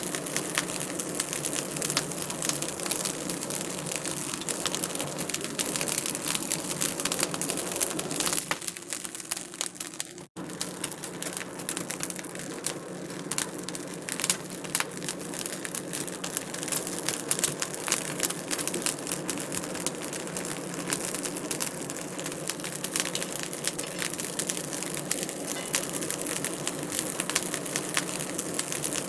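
Wood fire crackling with a dense, continuous stream of small pops and snaps. It thins briefly and cuts out for an instant about ten seconds in.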